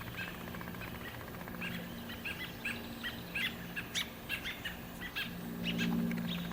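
Birds giving rapid, repeated short chirps, agitated calling at a cat that is chasing them. A low steady hum swells up near the end.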